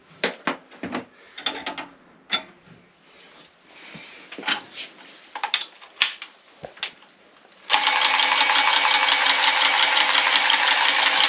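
Plumbing parts handled with a series of sharp clicks and knocks, then a small electric power tool starts abruptly about three-quarters of the way in and runs steadily at high speed, as when a fitting is cleaned.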